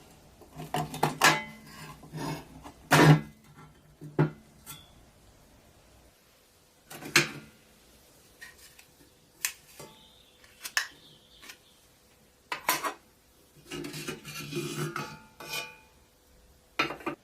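Metal parts of a rusty pressed-steel toy truck clinking and knocking as they are handled: irregular clanks in clusters, the loudest about three seconds in, with quiet pauses between.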